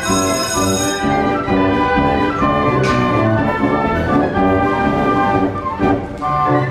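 1918 Wurlitzer 157 carousel band organ playing a tune: held notes in brass-like pipe tones over a steady rhythmic bass.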